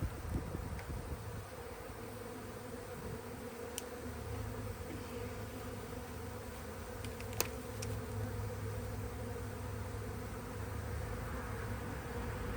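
Honey bees buzzing steadily around an open hive as its frames are being moved, with one sharp click a little past halfway.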